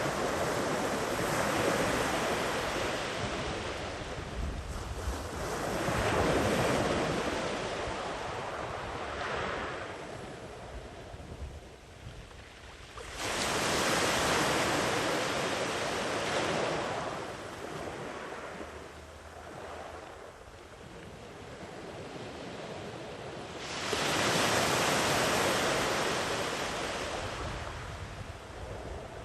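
Sea waves breaking and washing up a beach in slow surges, each rushing in and then fading. The surf swells near the start and again, more weakly, around six seconds. Two sharper breaks come about thirteen and twenty-four seconds in.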